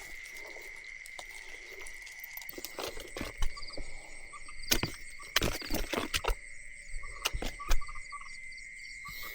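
Crickets chirring in a steady high trill, with short pulsed frog calls. Over it comes a series of sharp, irregular clicks and knocks from close by, loudest in the middle of the stretch.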